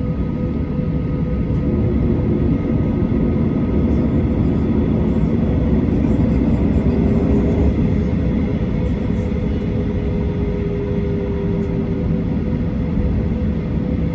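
Steady cabin noise of a Boeing 737-800 with its engines running on the ground: a dense low rumble with a constant hum over it.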